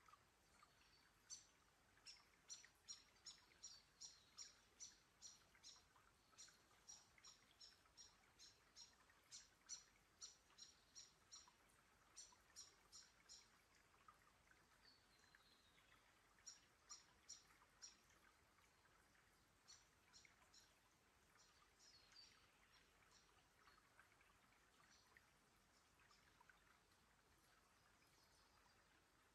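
Faint trickle of water over creek stones, with a bird calling in runs of short, high, evenly repeated notes, about two or three a second. The runs are long for the first half and come in shorter bursts later.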